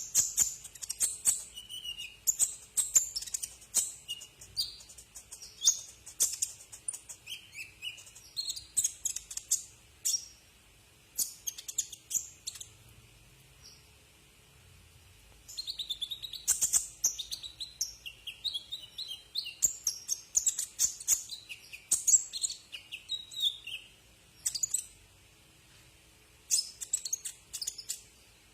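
Kolibri ninja sunbird singing rapid, high-pitched chirping and trilling phrases, broken by a couple of pauses of about two seconds.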